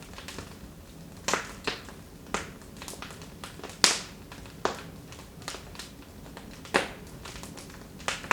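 Wood fire crackling in a fireplace: irregular sharp pops and snaps over a low hiss, the loudest pop about four seconds in.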